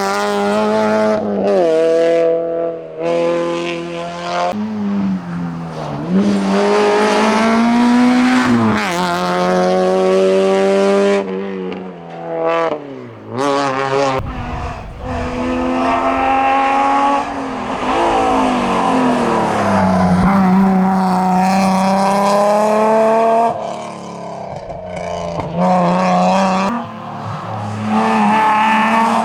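Racing car engine driven flat out, revs climbing and dropping again and again through gear changes and lifts, as a competition car accelerates past and on up the hill.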